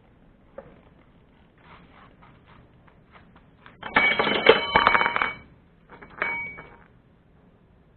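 Metallic ringing clatter: a burst of rapid strikes with ringing tones lasting about a second and a half, then a shorter one about a second later.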